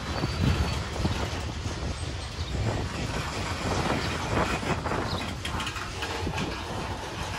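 Freight train of gravel cars moving on the rails: a steady low rumble with scattered clanks and clicks, thickest around the middle.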